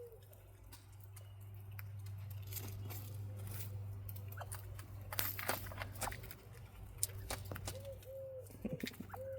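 Quail scratching and pecking in yard clippings: scattered rustles and clicks, busiest through the middle, with a few short soft low calls near the end. A steady low hum runs underneath.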